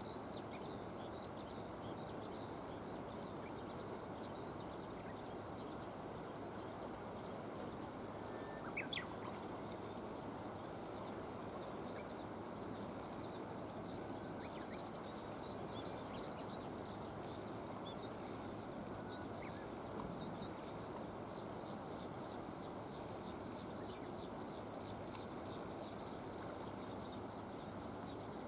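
Steady wash of rain and river. Over it, a small bird or insect repeats a quick, high, falling chirp about three times a second throughout, and a brief, louder bird call comes about nine seconds in.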